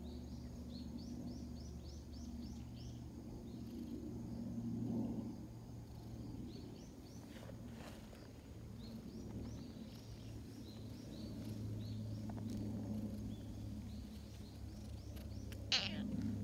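Small bird chirping in quick runs of short high notes over a low steady hum, with one brief sharp sound near the end.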